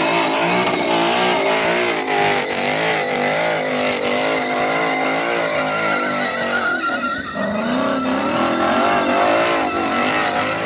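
Ford Mustang engine revved hard with the throttle pulsed so the note wavers up and down, while its rear tyres squeal continuously as it does donuts. The revs climb once more late on.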